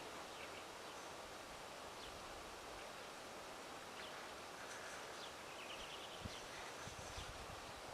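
Faint outdoor ambience: a steady hiss with a few distant bird chirps and a short trill of quick notes about five and a half seconds in. A few soft low knocks come near the end.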